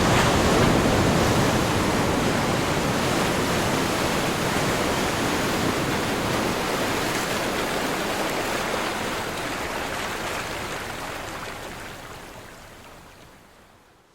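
Ocean surf: breaking waves as a steady rush of noise, loudest at first, that fades away to silence near the end.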